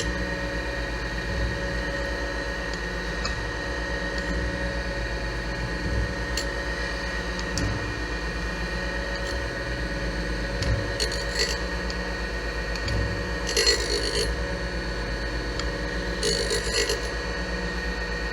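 Boyar-Schultz 612 surface grinder running, with a steady motor hum and whine from the spindle. Three short bursts of hiss come in the second half, a few seconds apart, as the wheel grinds the work dry after a down-feed of a couple of thousandths.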